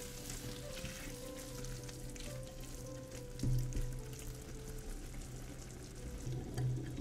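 Tuna, tomato and onion mixture sizzling in a frying pan while a silicone spatula stirs it, with soft crackles and scrapes over background music.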